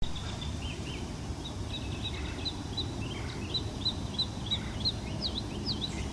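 A songbird chirping a long run of short, high notes, about three a second, the notes turning into quick downward slurs near the end, over a steady low rumble.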